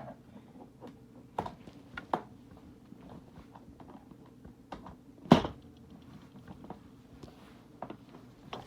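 Scattered clicks and knocks of a plastic toy's housing being handled and fitted back together, the loudest a sharp knock about five seconds in.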